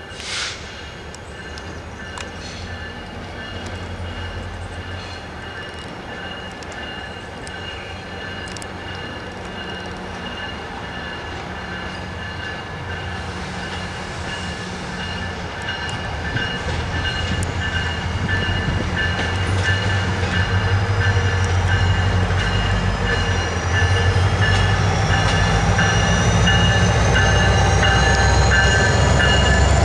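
MARC MP36PH-3C diesel locomotive approaching with its train; the low engine and rail rumble grows steadily louder over the second half. A steady high ringing tone runs throughout, a whine rises near the end, and there is a short hiss at the very start.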